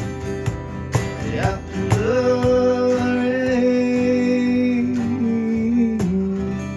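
Acoustic guitar strummed in a live country song, with a male voice holding one long note from about two seconds in that drops in pitch near the end.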